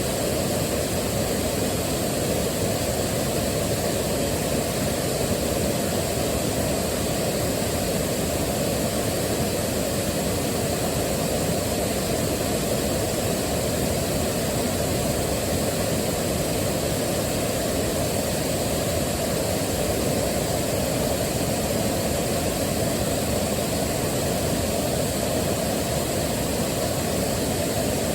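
Waterfall: steady rushing water, a dense unbroken roar heaviest in the low and middle range, with no change in level.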